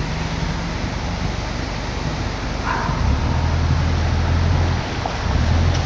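Steady rush of floodwater and rain, with a low engine hum coming in about halfway through.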